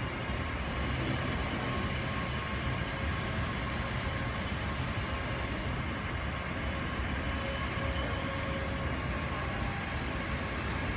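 Airbus A320's jet engines at taxi idle: a steady rumble with a faint, even whine above it.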